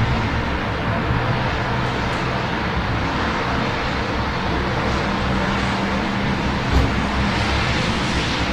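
Steady rain over a low hum of city traffic, with a short low thump about seven seconds in.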